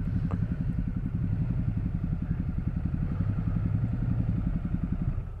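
KTM 1290 Super Adventure's V-twin engine running steadily at low revs while the motorcycle is ridden, with an even low pulsing beat.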